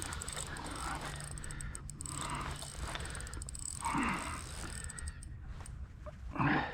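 Spinning reel being cranked with a fast ticking while a hooked smallmouth bass is fought, plus a few short, louder sounds spread through.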